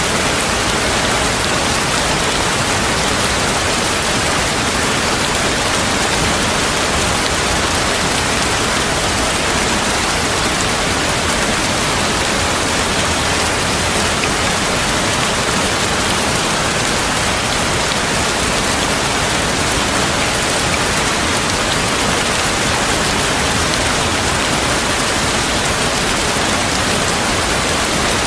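Heavy rain falling steadily, an even, unbroken wash of dense rainfall with no thunder.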